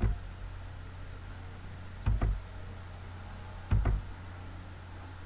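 Three short, dull knocks, roughly two seconds apart, over a steady low hum.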